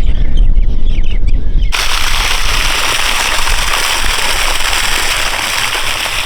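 Strong wind buffeting the microphone with a heavy low rumble. About two seconds in it changes abruptly to a loud, steady rush of windstorm noise.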